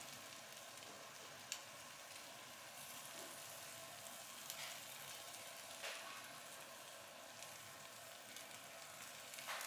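Food sizzling: a steady faint hiss with a few sharp crackles.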